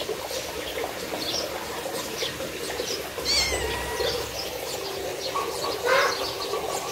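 Faint bird chirps now and then, short and high-pitched, over a steady outdoor background.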